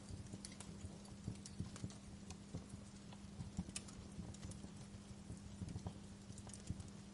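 Fire crackling, with irregular small pops and snaps over a faint steady hiss and a low hum.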